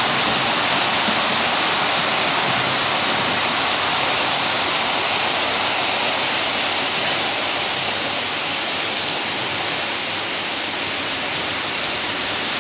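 Model railway locomotives and their coaches running on the track: a steady rushing whirr of motors and wheels on rails, easing slightly in the second half.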